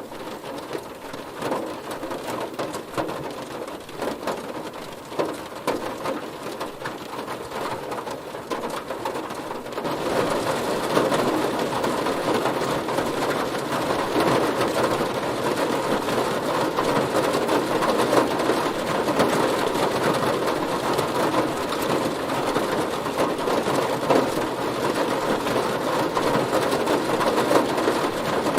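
Rain falling on a car's body, a dense patter of drops. It is lighter with separate ticks at first, then becomes heavier and louder about ten seconds in.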